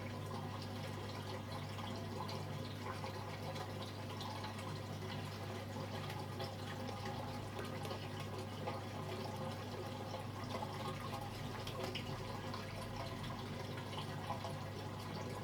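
Hoover Vision Dynamic DYN9154DBX washing machine's drain pump running with a steady hum while water trickles and gurgles out of the drum during the test cycle.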